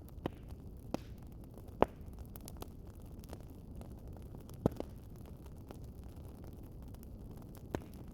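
Wood fire crackling and popping: a steady low rumble of burning with irregular sharp pops, the loudest about two seconds in and again near the middle.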